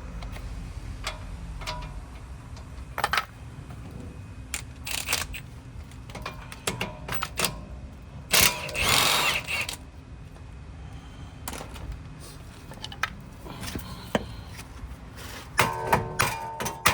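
Metal tools and parts clinking and knocking during car suspension work, with a louder noisy stretch of about a second and a half midway and a cluster of ringing metal strikes near the end.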